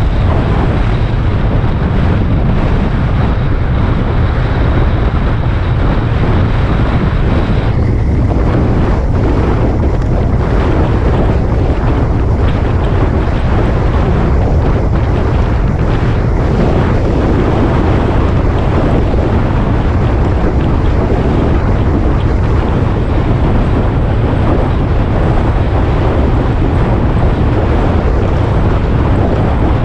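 Wind rushing over the microphone of a moving motorcycle: a loud, steady rush over a heavy low rumble. A faint high whine cuts off about eight seconds in.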